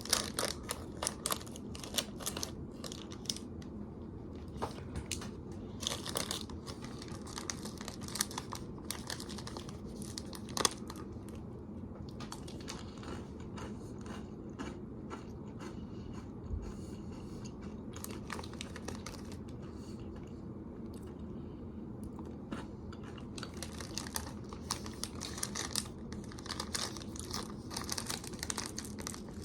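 Crinkling of a candy bag and crunchy chewing of M&M's Crunchy Cookie candies, heard as irregular sharp crackles and clicks that come thickest at the start and again near the end.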